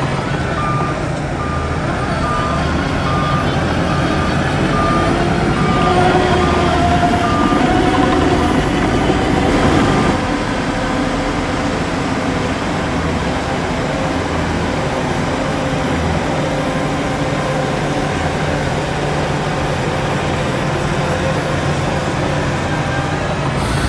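Heavy diesel earthmoving machinery running, with a reversing alarm beeping evenly, a little over once a second, for the first seven seconds or so. The engine noise swells and then drops off sharply about ten seconds in, and the machinery runs on steadily after that.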